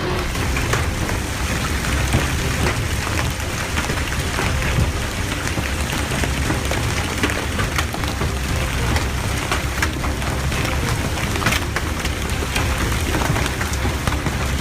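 Heavy rain pounding on surfaces: a dense, steady hiss dotted with many sharp individual hits.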